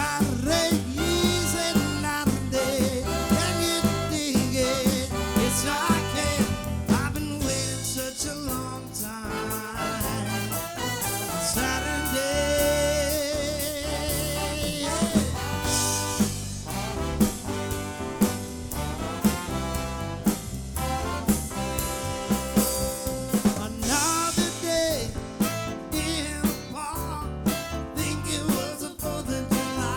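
A live soul band playing, with a drum kit keeping a steady beat under bass and melody; a long wavering note is held a little before the middle.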